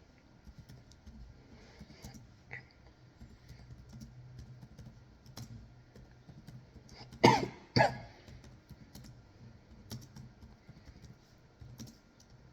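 A person coughs twice in quick succession about seven seconds in, over faint scattered clicking like typing on a keyboard.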